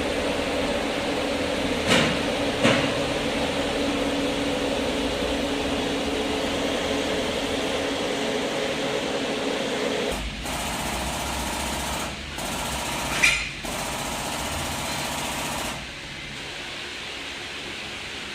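A machine running steadily with a hum, broken by two sharp clicks about two seconds in and a louder click in the second half. The sound changes abruptly several times near the end.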